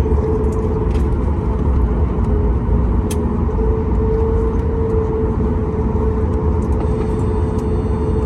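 Boeing 737 MAX 8 jet running steadily, a heavy low rumble under a steady whine.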